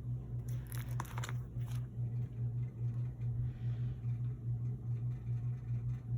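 A steady low machine hum, like a fan or motor, pulsing evenly. A brief patch of rustling and clicks comes about half a second in and lasts about a second.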